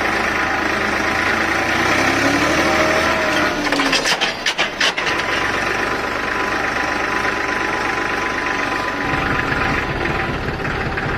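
Homemade mini tractor running steadily under load, with a few sharp clicks about four seconds in and its low rumble dropping out briefly, then growing stronger near the end.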